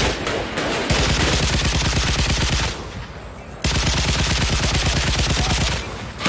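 Machine-gun fire in long sustained bursts of rapid, even shots, each burst about two seconds, with short pauses between them.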